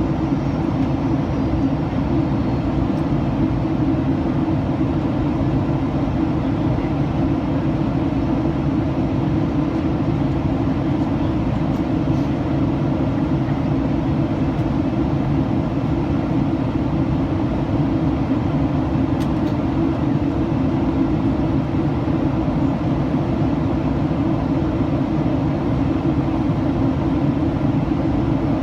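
Steady cabin noise inside a Boeing 737-800 in flight: an even, low drone of airflow and its CFM56-7B engines, with no change in level.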